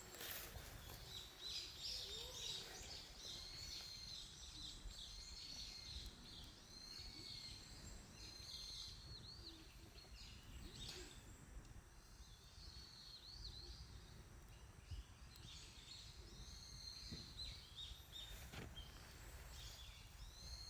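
Small birds chirping and twittering again and again, faint, over a low steady rumble. A few sharp pops come through, typical of wood snapping in a campfire.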